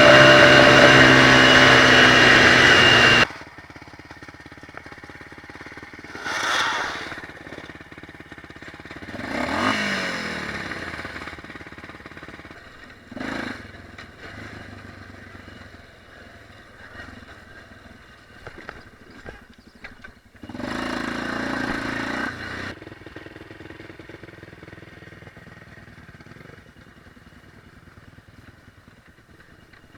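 Off-road motorcycle engine running loud, cutting off abruptly about three seconds in. After that, fainter dirt-bike engines swell and fade a few times, one falling in pitch as it passes and slows.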